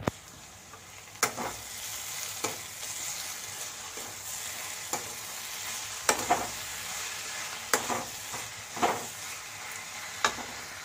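Sliced onions and tomatoes sizzling in hot oil in an aluminium kadai, with a metal spatula scraping and knocking against the pan every second or so as they are stirred.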